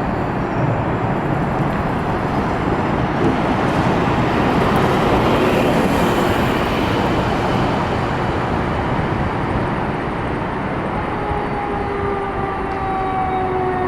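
Steady heavy street traffic noise. About eleven seconds in, a fire engine's siren tone comes in, slowly falling in pitch.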